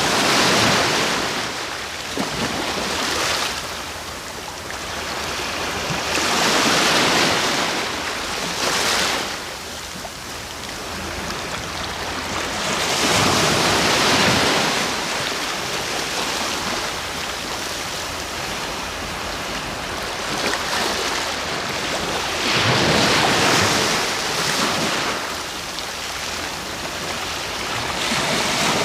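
Sea waves breaking on the shore and washing back, each surge swelling to a loud hiss and fading, several times.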